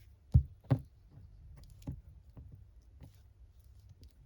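Paper and craft tools being handled on a desk: two sharp taps in the first second, then a few lighter ticks.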